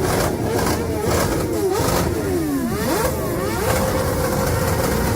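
Motorcycle engines revving, several at once, their pitch repeatedly rising and falling over a steady engine drone.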